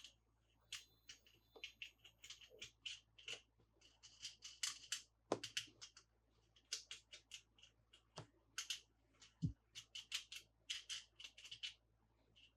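Toy packaging being handled during an unboxing: irregular clusters of short crisp crinkles and clicks, with quiet gaps between them.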